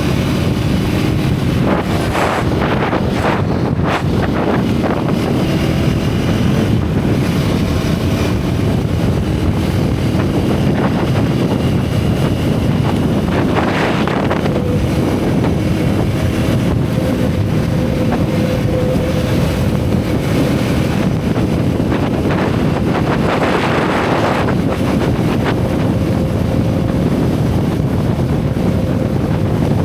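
Single-cylinder motorcycle engine and exhaust running under way at a steady pace, with heavy wind noise on the camera microphone.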